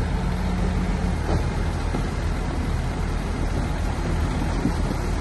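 Diesel engine of a Shantui crawler bulldozer running steadily, with a low even engine drone.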